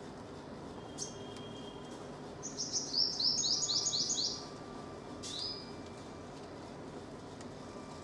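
A bird calling: a quick run of about ten high, downward-sweeping notes, lasting about two seconds, starting a little over two seconds in, then a single shorter note about a second later.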